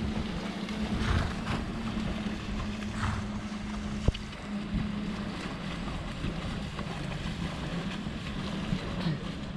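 Wind on the microphone over sea surf, with a steady low motor hum underneath, like a boat engine, and a single sharp click about four seconds in.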